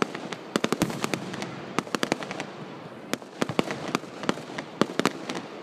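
A fireworks display going off: a rapid, irregular string of sharp bangs and pops, dozens in a few seconds.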